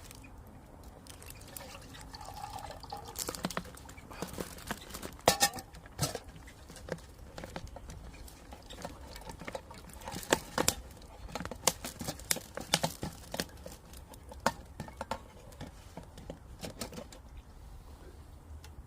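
Water being poured and sloshed while being readied for boiling, with scattered clinks and knocks of camp cookware.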